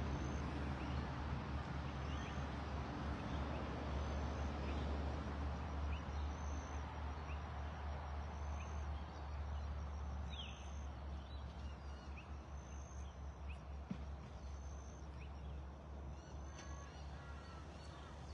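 Wind rumbling on the microphone, with a bird repeating a short high chirp about every second and a half. The wind eases about halfway through.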